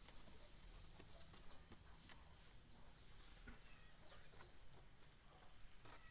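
Faint open-air rural ambience: a steady thin high tone runs throughout, with scattered soft clicks and a few small chirps.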